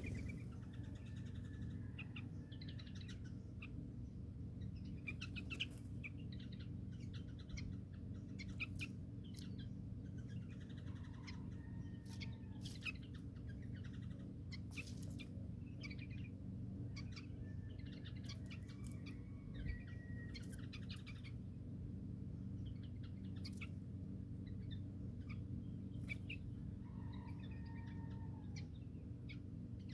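Small birds chirping: many short, high chirps with a few brief whistled notes, scattered irregularly, over a steady low hum.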